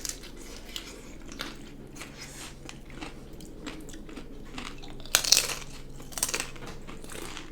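A person biting and chewing crunchy food close to the microphone, with scattered crunches and a burst of loud crunching about five seconds in, then another about a second later.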